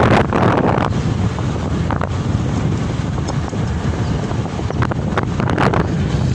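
Wind buffeting the microphone on a moving motorcycle, over a steady low rumble of engine and road noise, with gusts swelling and fading every second or so.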